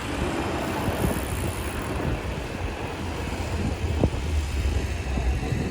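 Bus engine running with a steady low rumble, wind on the microphone, and a short knock about four seconds in.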